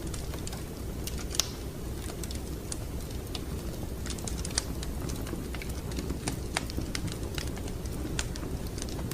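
Wood fire crackling in a fireplace: irregular sharp snaps and pops over a steady low rumble of the burning fire, with a louder pop about a second and a half in and another a little before the middle.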